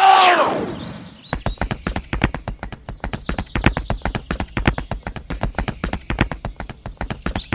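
A horse's whinny tails off in the first second. It is followed by a fast, very even clip-clop of hooves, about seven beats a second.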